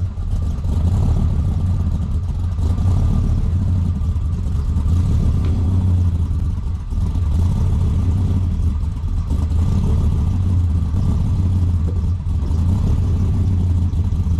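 A vehicle engine running steadily at low revs, with no clear revving.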